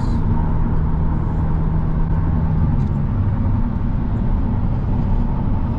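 Steady road and engine noise inside a car cruising on the highway at about 110 km/h, a low drone with a steady hum.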